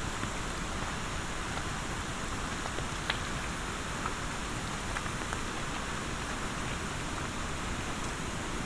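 Steady monsoon rain falling, an even hiss with a few sharper drop impacts scattered through it, one a little louder about three seconds in.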